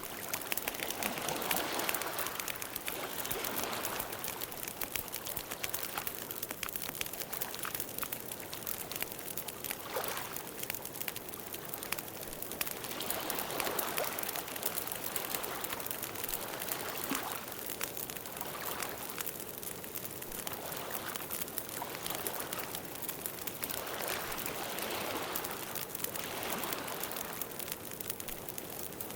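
Campfire burning steadily, a continuous rush and hiss with many small crackles and pops throughout.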